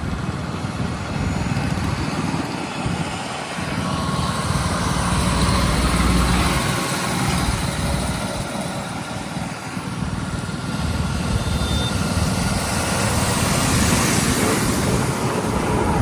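Heavy diesel engine running, its low rumble rising and easing over several seconds.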